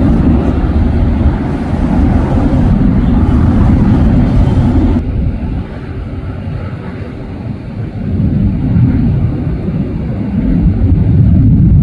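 Low, rumbling roar of jet airliner engines, swelling and easing in loudness. The higher part of the sound falls away about five seconds in.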